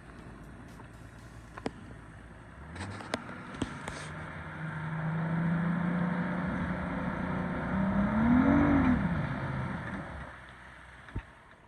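A vehicle's engine running and accelerating: its pitch holds steady for a few seconds, climbs in a rev and falls away. A few light clicks come early, before the engine sound builds.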